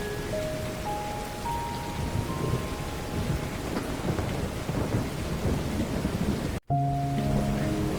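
Heavy rain falling steadily with low rumbling thunder, under soft sustained music notes. Near the end the sound cuts out completely for an instant, then the rain and music resume.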